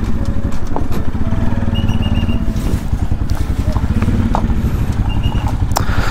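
Motorcycle engine running steadily under way, heard from the bike itself.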